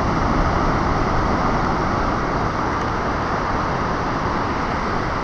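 Waves coming in on the shore, a steady rushing noise.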